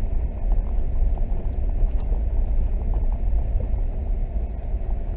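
Steady low road rumble inside a moving car as its tyres roll over a snow-covered road, with a few faint clicks scattered through it.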